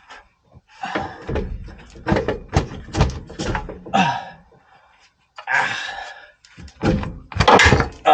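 Repeated metal knocks and thuds of a Range Rover L322 CV axle being worked loose and pulled out, some in quick clusters. A short scraping rush comes about five and a half seconds in.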